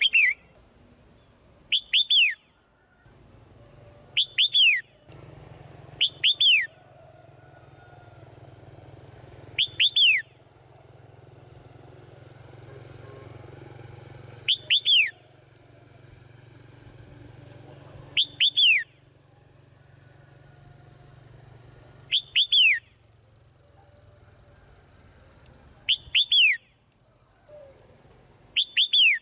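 A swallow calling over and over, about nine times, every two to five seconds. Each call is a quick pair of downward-sliding chirps, over a faint steady high hiss.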